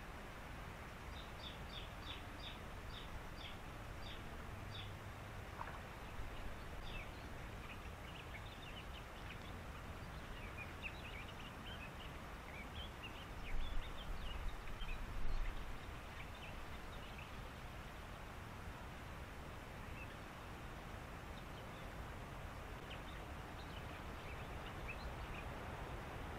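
Birds in reeds giving runs of short, high chirping calls, several a second, with pauses between the runs. They sound over a steady outdoor hiss, with two brief low rumbles about halfway through.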